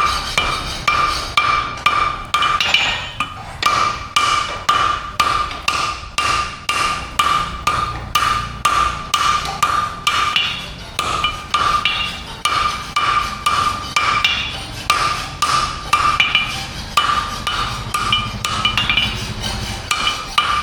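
Blacksmith's hammer striking steel on an anvil, about two blows a second, each blow ringing with a clear metallic tone, in runs broken by short pauses.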